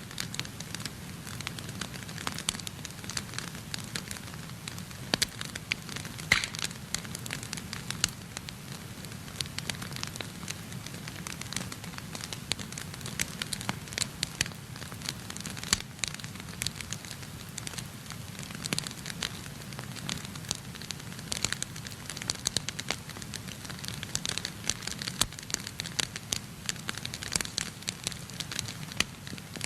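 Wood fire burning in a fireplace, crackling with frequent irregular pops and snaps over a steady low rumble of the flames.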